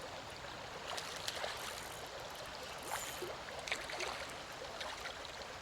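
Creek current running steadily, with a few faint short sounds over it.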